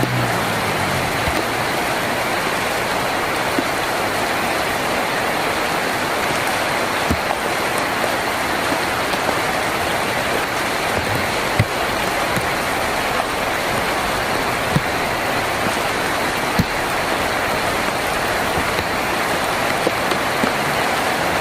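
Steady rain falling on a tin roof, an even hiss with now and then a single louder drop striking sharply. A low rumble fades out in the first second.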